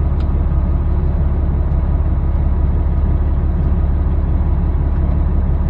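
Semi-truck's diesel engine running steadily with a constant low drone.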